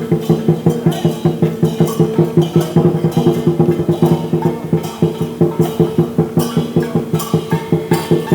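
Dragon dance percussion: a large drum beaten in a fast, steady rhythm of about five strokes a second, with cymbals crashing in repeated groups over it.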